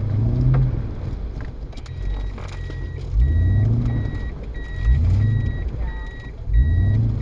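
A car engine revving in about four separate bursts, typical of a vehicle working its way through a stream crossing. From about two seconds in, a repeating electronic warning beep sounds alongside it, roughly one and a half beeps a second.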